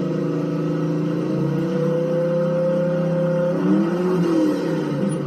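White Outdoors lawn tractor engine running steadily just after start-up on a newly fitted carburetor, kept running to break in the camshaft. Its pitch wavers briefly about four seconds in.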